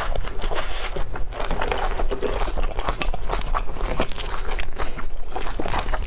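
Close-miked chewing of roast duck with the mouth closed: a fast, irregular run of small wet clicks and smacks.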